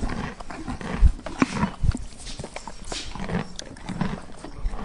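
An animal sound effect, with irregular knocks and thumps.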